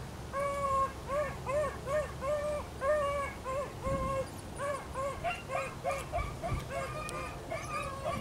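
Beagles baying on a cottontail rabbit's trail: short, pitched barks repeated about twice a second, with a second, higher-voiced hound joining in about halfway through.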